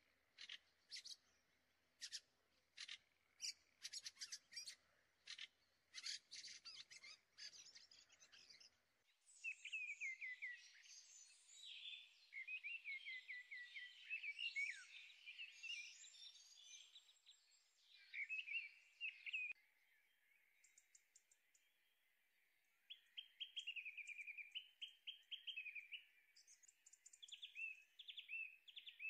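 Faint birdsong: a run of short, sharp chirps for about the first nine seconds, then quick twittering song with rapid falling notes.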